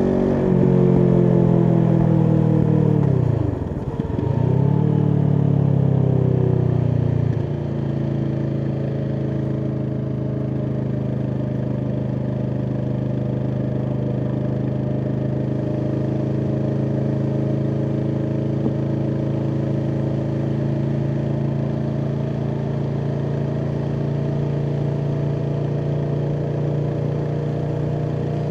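Kawasaki Vulcan S parallel-twin engine through an Arrow aftermarket exhaust, heard while riding. The revs drop sharply and climb back about four seconds in, then about seven seconds in it gets quieter and settles into a steady cruise.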